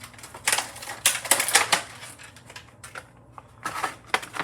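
Plastic packaging clicking and crackling in irregular short bursts as an action figure is worked out of its box tray.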